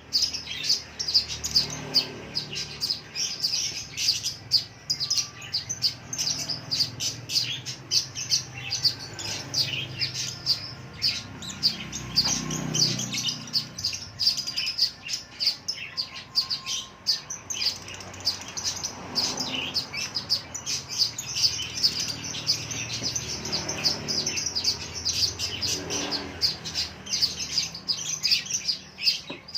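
Lovebird chirping: rapid, high, shrill chirps that run on without a break.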